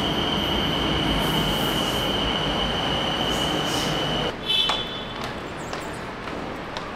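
Bangkok BTS SkyTrain train running past the platform: a loud rumble with a steady high-pitched whine. It cuts off abruptly about four seconds in, leaving a quieter background.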